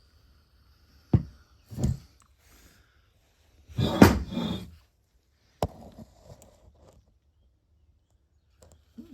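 Several separate knocks and clunks of parts and tools being handled on a workbench. The loudest is a clatter lasting about a second, some four seconds in.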